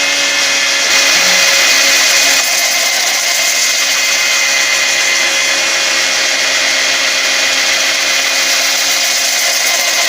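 Power sander with a foam-backed 120-grit pad running steadily against the inside of a spinning wooden bowl: an even motor whine over the rasp of the abrasive.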